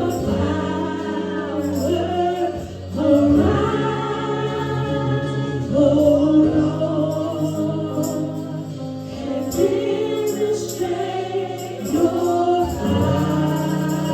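Gospel praise-and-worship music: voices singing together in held, drawn-out lines over sustained low accompaniment.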